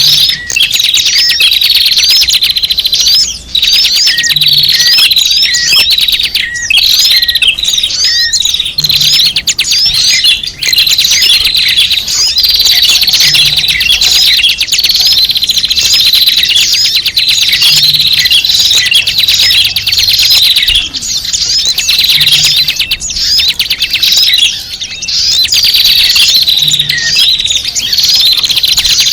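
Many small birds chattering at once: rapid, overlapping high chirps and short twittering glides with no pauses. This is a noisy flock recording of the kind played as a lure (pikat) to call small birds in.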